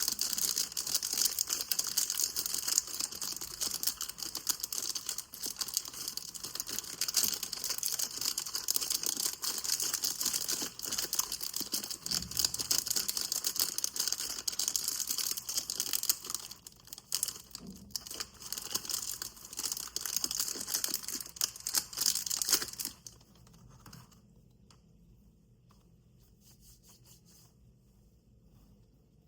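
Dry soap being crunched: dense, rapid crackling that cuts off suddenly after about 23 seconds, leaving faint background hiss.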